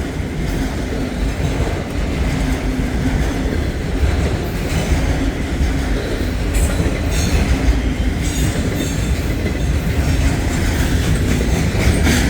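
Freight train rolling past with a steady low rumble, its wheels clicking over the rail joints from about four seconds in.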